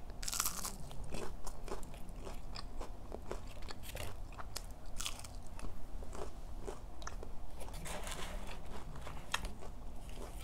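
A close-miked bite into a crisp breaded McDonald's chicken nugget just after the start, then chewing, with the breading crunching in irregular clicks.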